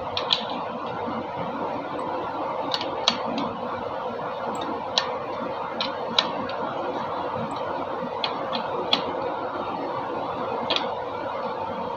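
Sharp clicks and light taps at irregular intervals, about a dozen of them, from hand tools and parts being handled during an engine overhaul. A steady hum runs underneath.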